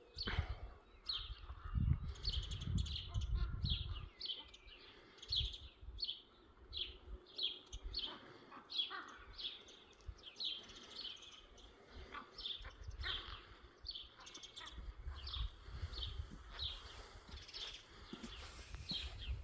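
A small bird calling over and over, a short falling chirp repeated about three times every two seconds.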